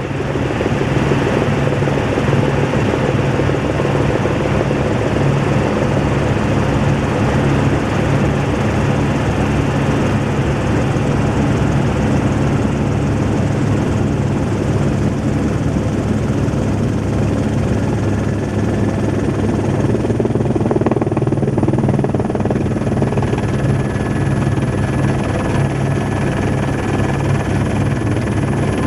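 Helicopter rotor and engine running in flight: a loud, steady drone with a strong low hum. A faint high whine slowly rises about two-thirds of the way through.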